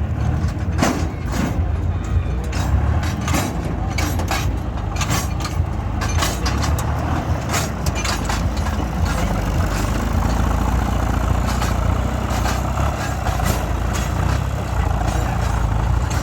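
Farm tractor engine running steadily, with scattered sharp clicks and knocks over it.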